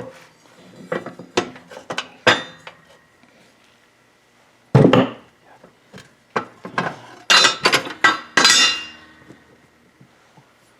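Steel tools and parts being handled and set down on a bench, a series of separate metal clanks and knocks, with a heavier knock about five seconds in and a quick run of clanks near the end.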